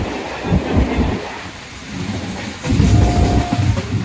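Suburban local train running on the rails, a heavy rumble with irregular clattering knocks from the wheels and track, and a short steady tone about three seconds in.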